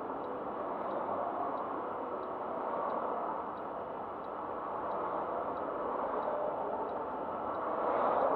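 Road traffic noise: a steady rush of car engines and tyres on the road, swelling near the end as a vehicle passes close.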